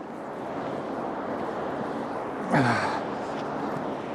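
Steady background noise, with one short sigh from a person about two and a half seconds in, its pitch falling.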